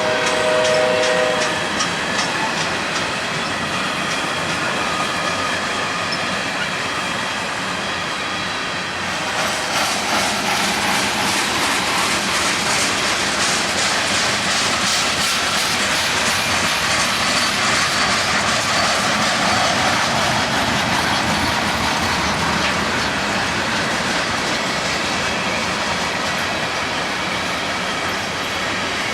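Canadian Pacific freight train rolling past, its wheels clicking steadily over the rail joints, with a short horn blast at the start. The rolling noise grows louder about a third of the way in and stays steady.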